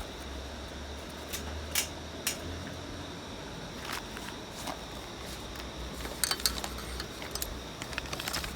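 Scattered light clicks and clinks of small hard objects being handled, a few spaced apart and then a quick run of them near the end, over a faint steady low hum.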